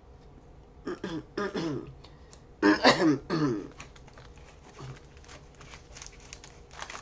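A man clearing his throat and coughing, three voiced bursts, the last and loudest about three seconds in. After that, faint light clicks and crinkles of card handling.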